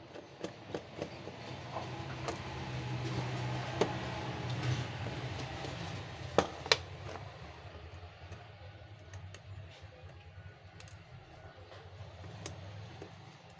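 Small sharp clicks and taps of tools and parts being handled on a phone repair bench, two louder clicks just after the middle, over a low steady hum that swells and then eases.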